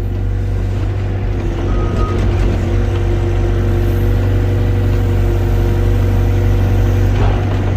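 Excavator's diesel engine running steadily at a constant speed, a loud even low hum.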